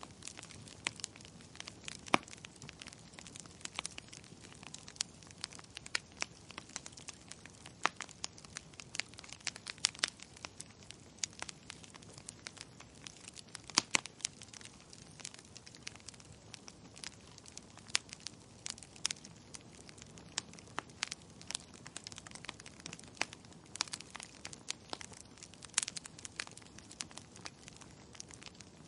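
Wood fire crackling in a fireplace: irregular sharp pops and snaps, several a second, over a soft steady hiss, with the loudest pops about two seconds in and about fourteen seconds in.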